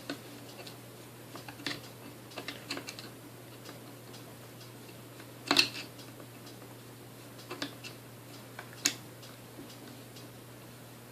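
Scattered light clicks and taps as small parts of a Sunbeam Mixmaster Model 12 stand mixer are handled and fitted during reassembly, the loudest a sharp knock about halfway through, over a low steady hum.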